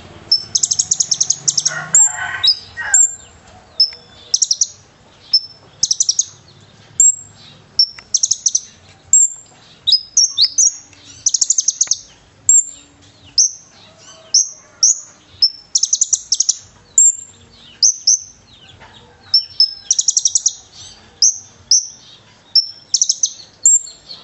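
A konin (kolibri ninja sunbird) singing hard: rapid high-pitched trills and sharp chirps repeated about once a second, with slurred whistled notes between them. The song is stuffed with mimicked phrases ('isian'), here of the cililin, as used for masteran training.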